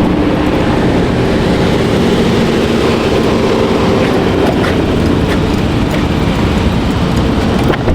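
Car engine and road noise, a loud steady rumble with an even engine hum and no revving.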